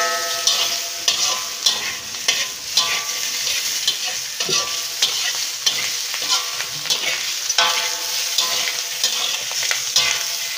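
Diced pork skin and fat with garlic, ginger and shallots sizzling in a wok, frying in its own rendered fat with no cooking oil, while a metal utensil stirs and scrapes the pan. A steady frying hiss with quick scraping clicks and a few short ringing notes from the wok.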